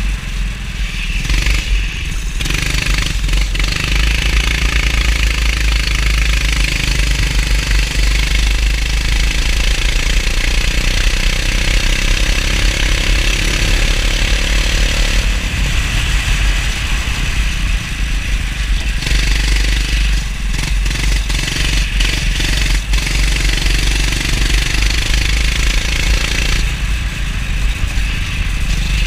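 Go-kart engine running while lapping a wet track, its pitch rising and falling with speed, over a heavy low rumble.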